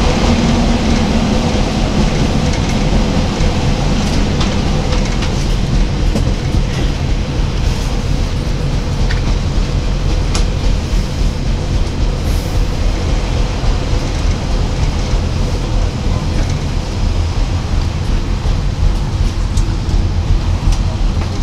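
Class 143 Pacer diesel railbus heard from on board while under way: a steady, heavy rumble of the underfloor diesel engine and wheels on the rails, with a few brief clicks.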